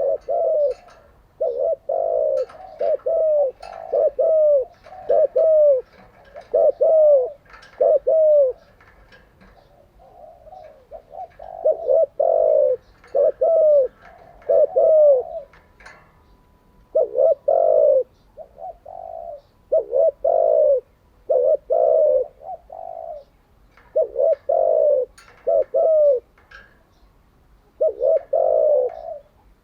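Spotted dove cooing: phrases of several short, low coo notes, some ending in a falling slur, repeated over and over with brief pauses between phrases.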